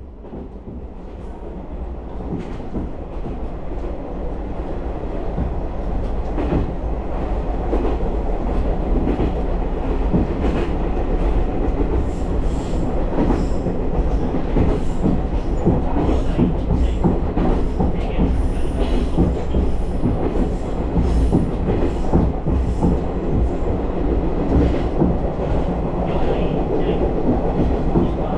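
Diesel railcar running on the rails, heard from on board while it gathers speed: a low rumble grows louder over the first dozen seconds, then wheel clicks over the rail joints come through steadily.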